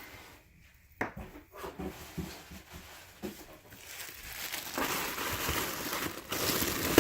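Hands handling packaging: a sharp click about a second in and a few light knocks, then crinkling and rustling of wrapping that grows louder from about five seconds in.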